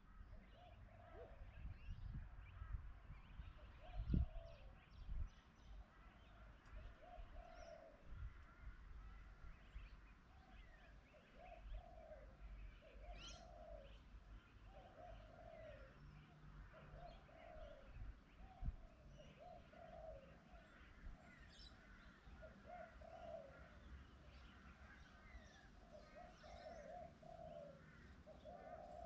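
Faint pigeon cooing, a low call repeated about every two seconds, with small birds chirping higher above it. Low rumbles and thumps come and go underneath, the loudest about four seconds in.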